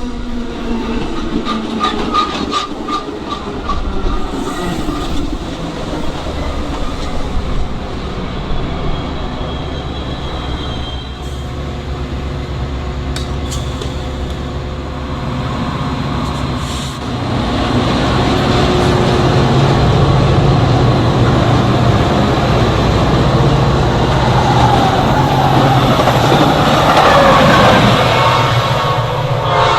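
Metra diesel commuter trains passing through the station, wheels clattering on the rails over a steady engine drone. The sound grows louder a little past halfway through, as a train comes closer.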